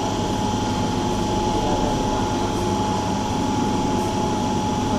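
Train running with a steady mechanical drone and one constant high whine over it.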